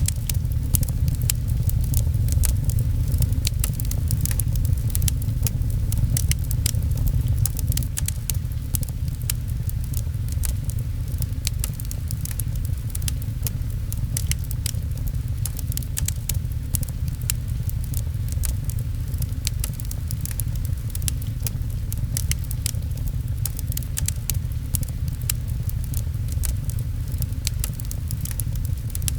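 Fireplace crackling, with many small sharp pops scattered over a steady low rumble, mixed with rain on a window.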